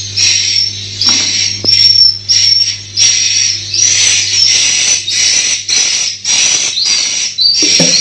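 Edible-nest swiftlets twittering: shrill chirping calls repeated about one to two times a second.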